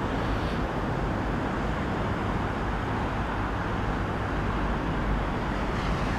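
Steady outdoor rumble and hiss of wind and breaking sea waves, even throughout with no distinct events.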